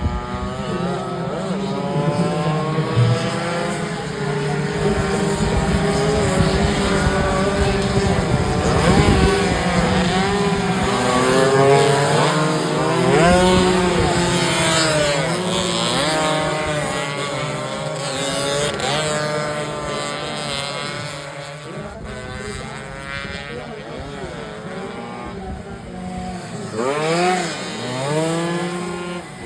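Several racing motorcycle engines revving hard and passing, their pitches rising and falling over one another, with one bike sweeping past loudly near the end.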